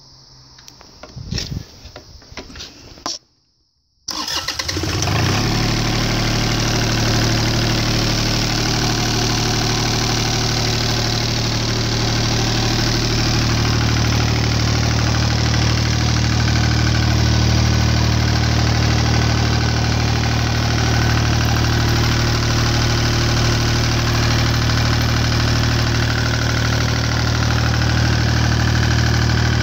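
Deutz 2009L03 three-cylinder direct-injected diesel engine cold-starting: a few clicks, then about four seconds in it fires, catches and settles into steady running.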